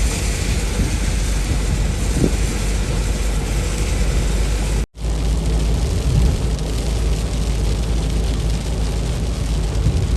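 Steady road and wind noise of a moving car, heavy in the lows, cut off abruptly for a split second about five seconds in before resuming.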